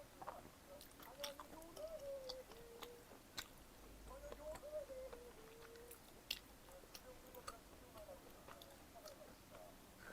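Faint close-up chewing of pizza: soft wet mouth clicks scattered throughout, with a wavering pitched hum heard twice, each for about a second and a half.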